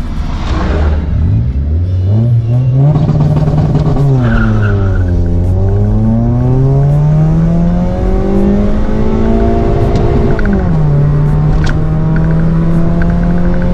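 First-generation Toyota Vios's stock 1NZ-FE four-cylinder accelerating hard through its automatic gearbox. The revs dip and then climb about a second in, drop at an upshift about four seconds in, and climb again for several seconds. They drop at another upshift near ten seconds and then hold steady.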